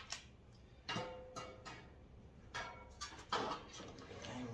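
Tool storage rack parts being handled and fitted together during assembly: a string of irregular clinks and knocks, some sharp and some duller.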